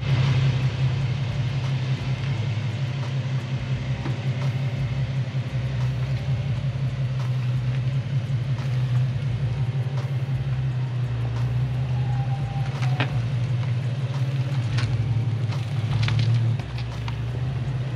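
Infiniti G37's V6 engine running with a steady low drone, and a few faint clicks in the second half.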